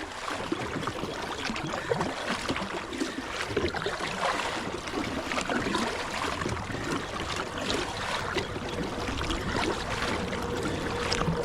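Kayak paddle strokes splashing and dripping, with river water rushing along the hull, as the kayak is paddled hard against a strong current.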